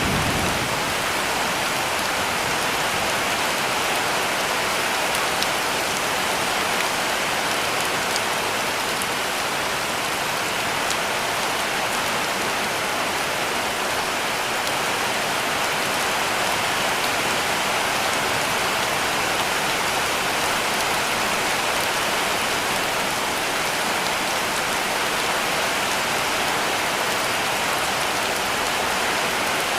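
Heavy rain falling steadily on a cabin roof: a dense, even hiss with scattered sharper drop ticks.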